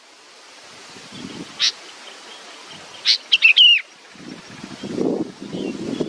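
A bird calling: a single sharp chirp, then a sharp note followed by a quick run of three or four downward-sliding chirps. From about four seconds in, low wind rumble on the microphone builds up.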